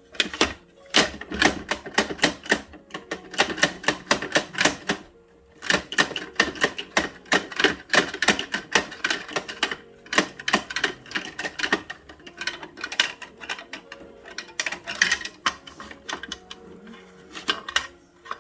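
Rapid plastic clicking and clattering of Bruder toy garbage trucks being handled, in dense runs of sharp clicks broken by two short pauses.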